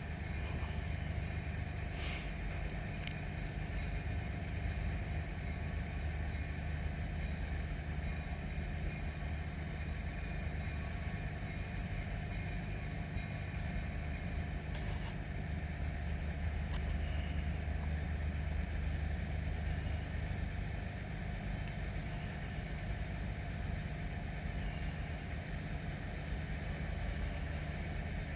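An engine idling steadily with a low hum and a faint high whine, with a few brief clicks about two and three seconds in.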